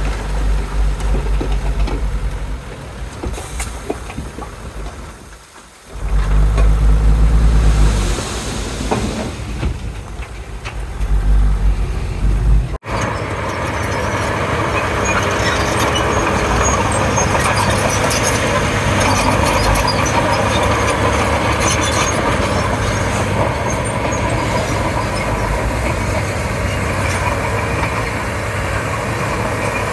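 Komatsu D31P bulldozer's diesel engine working under varying load, a heavy low rumble that surges and eases. About thirteen seconds in the sound cuts abruptly to a steadier, even engine drone.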